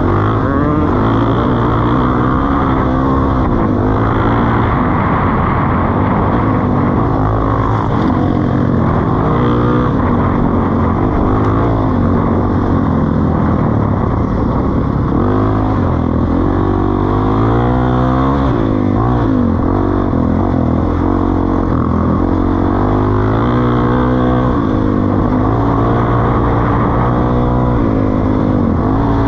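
Suzuki DR-Z400E single-cylinder four-stroke engine running through a Pro Circuit T-4 exhaust, its pitch rising and falling again and again as the revs change.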